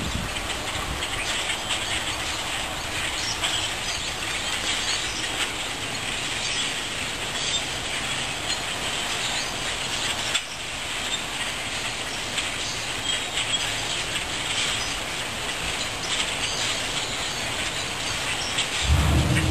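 A large flock of birds calling all at once, a dense steady chatter with no single call standing out.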